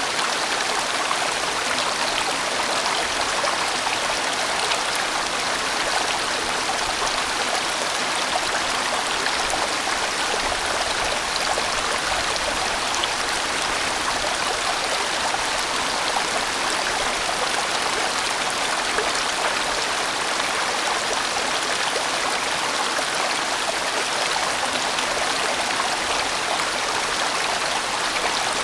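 A large mountain stream flowing and splashing over rocks, a steady rushing.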